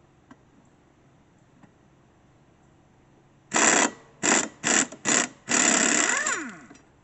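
Pneumatic impact wrench, run off an air compressor, fired in four short bursts and then a longer run of about a second that winds down with a falling pitch, working loose the bolt on a mower blade.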